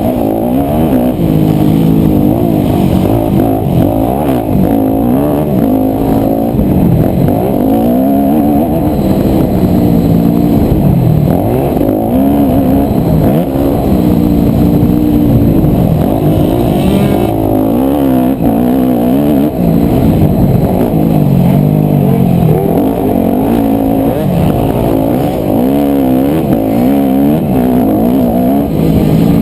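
A 250cc four-stroke single-cylinder motocross bike engine being ridden hard, the throttle opened and shut over and over so the engine note repeatedly rises and falls.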